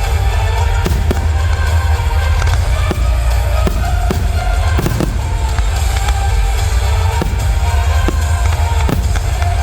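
Fireworks going off, a handful of sharp bangs scattered over loud music with a heavy bass line and a steady melody.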